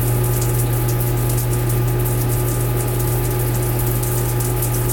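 Steady, loud machine hum with a hiss over it.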